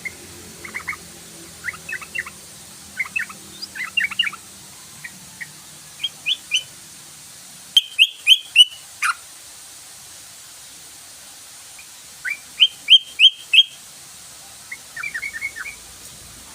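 Sooty-headed bulbul (trucukan) singing in short, bright phrases of quick notes. There is a loud run of about four notes about halfway through, another about three-quarters through, and a quicker chatter near the end.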